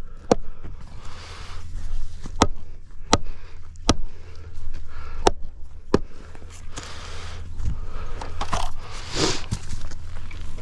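A string of sharp knocks, then a few seconds of scraping, over a steady low hum.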